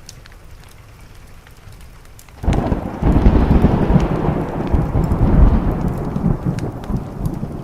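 Rain falling steadily, then about two and a half seconds in a sudden loud thunderclap that rolls on as a deep rumble and slowly fades.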